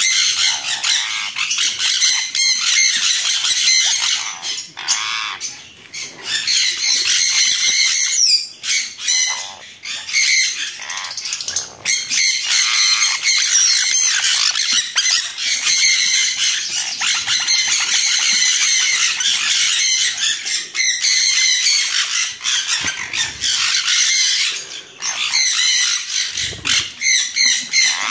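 A flock of conures screeching harshly and almost without pause, many birds calling at once. The parents and other aviary birds are crowding round the opened breeding box to defend the chick.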